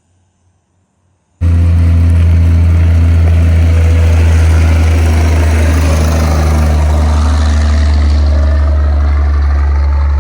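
A loud, steady engine-like hum with a strong low tone, cutting in suddenly about a second and a half in and stopping abruptly near the end.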